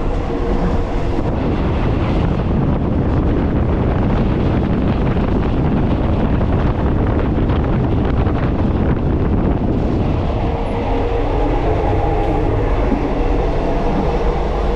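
Night train in motion: the steady, loud rumble and rattle of the carriage and its wheels running over the rails.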